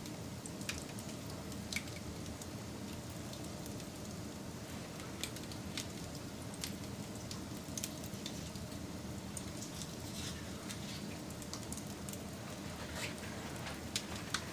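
Campfire crackling: a steady low hiss and rumble of burning with scattered sharp pops.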